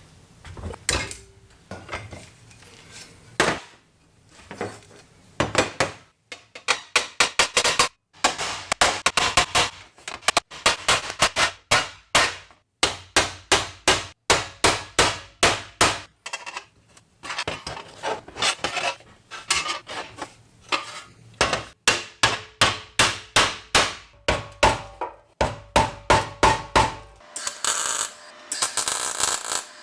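Repeated hammer blows, about three sharp strikes a second in runs with short pauses. Near the end the strikes give way to a rough scraping, rasping sound.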